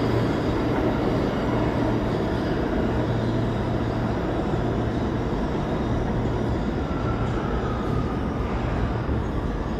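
New York City subway train in the station: a steady rumble with a low hum, and a faint, slightly falling whine near the end.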